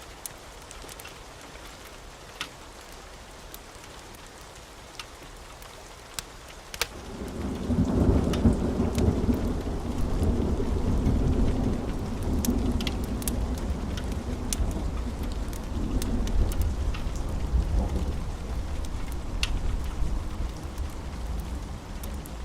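Wood fire in a fireplace crackling, with scattered sharp pops. About seven seconds in, a loud deep rumble swells up and keeps rolling under the crackle.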